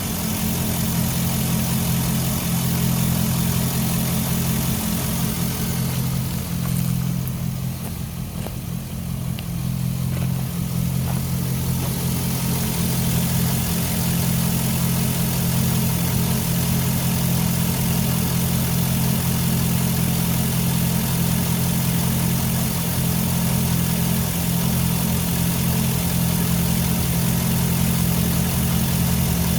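2004 Chevy SSR's 5.3 L V8 engine idling steadily.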